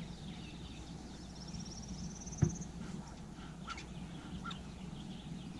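Honeybees humming steadily around the hive as it is smoked. A single short knock comes about halfway through, and a bird trills in the background near the start.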